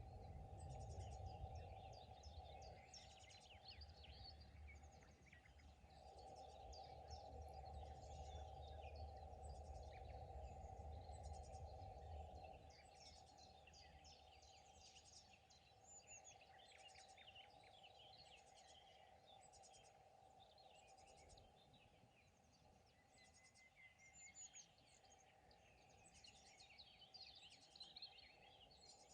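Faint songbirds chirping and trilling, several birds calling over one another throughout. Under them a low, steady rumble drops away about twelve seconds in.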